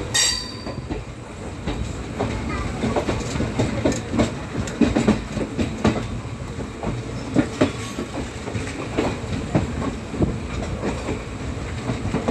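Passenger train passing close by at speed, its wheels clicking and knocking over the rail joints in an irregular run over a steady rumble.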